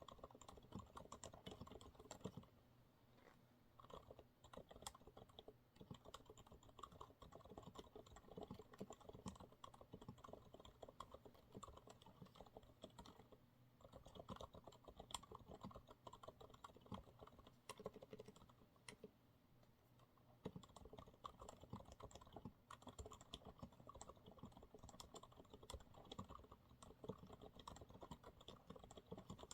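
Typing on a Monsgeek MG108W mechanical keyboard with TTC silent brown switches: a quiet, steady run of soft keystrokes that pauses briefly a few times.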